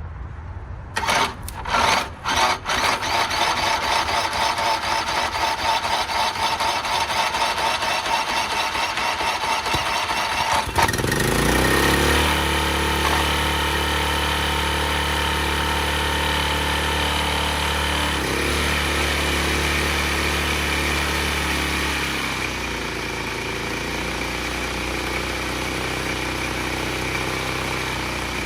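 Small lawn mower engine being cranked over for several seconds. It catches about eleven seconds in, revs up and runs steadily, then settles to a lower speed about 22 seconds in.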